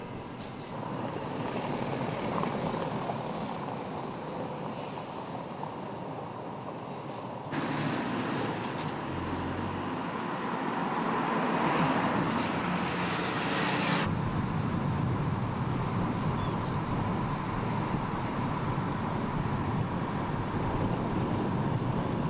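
A car driving: steady engine and road noise, which jumps louder and brighter about a third of the way through and changes again about two thirds of the way through.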